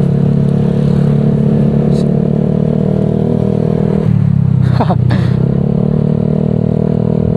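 Honda Vario 125 scooter's single-cylinder engine running through a Nobi Neo 3 Bold aftermarket exhaust while riding at a steady throttle; the exhaust note drops in pitch about four seconds in as the throttle eases, then steadies again.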